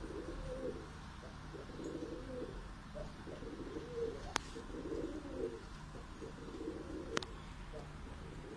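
Domestic pigeons cooing, several low rolling coos following and overlapping one another. Two sharp clicks come about four and seven seconds in.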